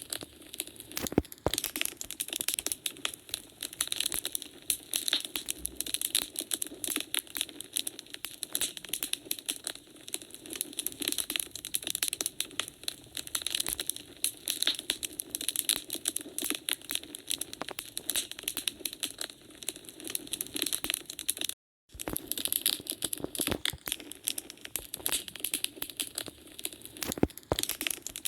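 Wood fire crackling in a fireplace: dense, irregular snaps and pops from the burning logs. The sound cuts out to silence for a fraction of a second about three quarters of the way through, then picks up again.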